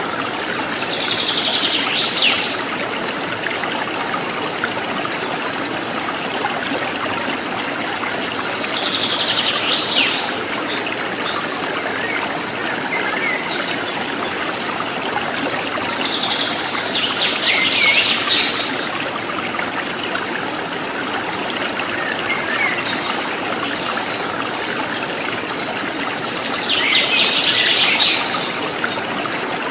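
A forest stream trickling and gurgling steadily, while a bird repeats a high call phrase about a second and a half long four times, roughly every eight seconds.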